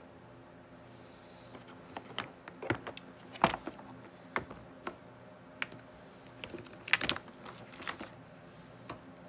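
Craft stamps being sorted through by hand, small hard pieces clicking and tapping against one another at an irregular pace, with a few sharper knocks.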